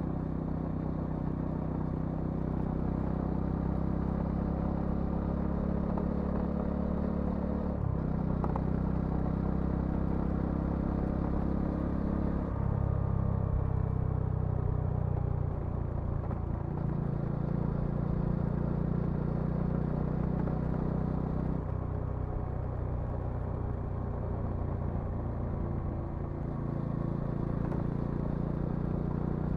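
Bajaj Dominar 400's single-cylinder engine and exhaust running while riding, its note shifting up and down in steps several times through the passage.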